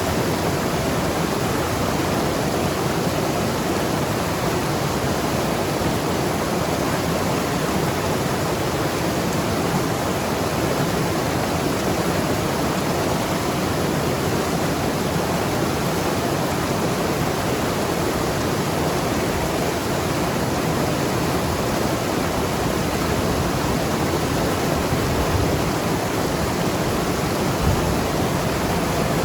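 Mountain river rushing and gurgling over rocks, a steady, unbroken water noise.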